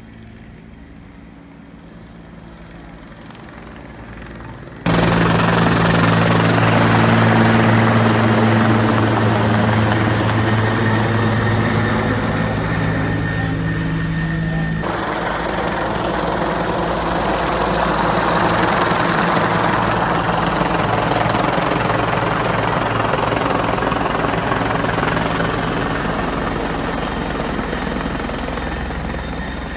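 Helicopter flying, its rotor running steadily. The sound is faint and growing at first, turns abruptly loud about five seconds in, and changes suddenly about fifteen seconds in, as between different shots.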